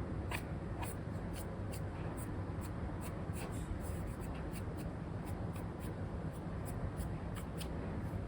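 Apple Pencil 2 with an Elecom nib scratching over a paper-like film on an iPad screen in many short, quick strokes, a couple of times a second. Under it runs a steady low background noise.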